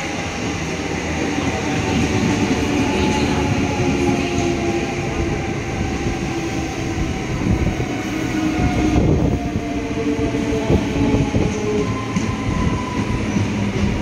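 EMU electric local train running on the rails: a dense rumble of wheels on track, growing louder over the first two seconds. Over it, several whines from the electric traction motors slide down in pitch, with a cluster of knocks and clatter about eight to ten seconds in.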